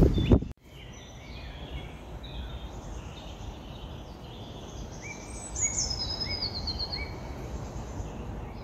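Songbirds singing: scattered short high calls throughout, and about halfway through a high trill that steps down in pitch alongside a run of short repeated notes, over a light steady wind hiss. A brief burst of footsteps and rustling at the very start cuts off abruptly.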